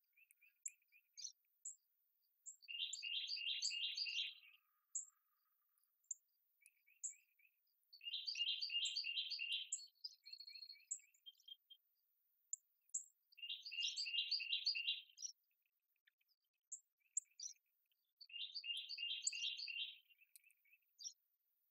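A songbird singing four song phrases, each a fast run of repeated notes about two seconds long, with short scattered chirps in the gaps between them.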